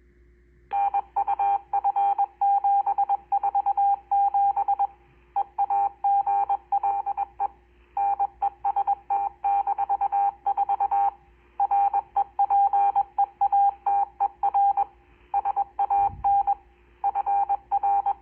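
GMRS repeater's automatic station ID sent in Morse code: a single steady beep tone keyed on and off in short and long pulses, heard through a Motorola R7 handheld transceiver's speaker. It starts a little under a second in.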